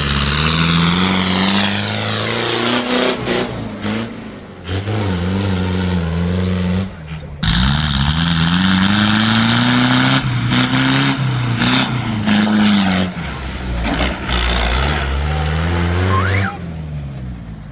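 Heavy diesel engines revving hard under load, the pitch repeatedly climbing and dropping, under a loud hiss. The sound breaks off and changes abruptly a few times.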